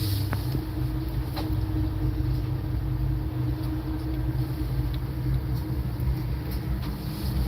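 A steady low rumble and hum with a few faint clicks.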